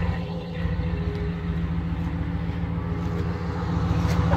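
A vehicle engine idling: a steady low hum that holds an even pitch throughout.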